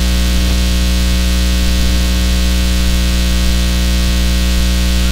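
Steady electrical buzz with hiss, unchanging throughout, like hum and static on an audio feed with no programme on it.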